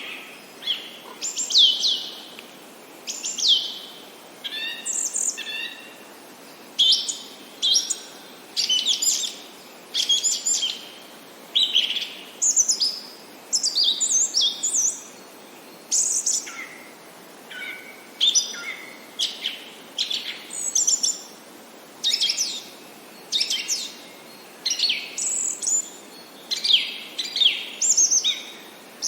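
Songbirds chirping and singing: short, high phrases of quick falling whistles and trills, repeated every second or two over a faint steady hiss.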